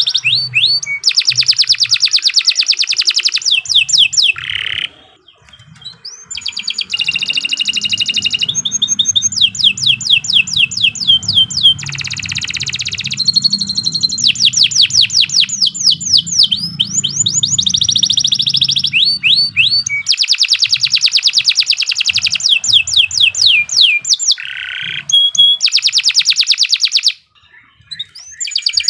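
Domestic canary singing a long song of fast trills and rapid runs of repeated sweeping notes, breaking off briefly about five seconds in and again near the end.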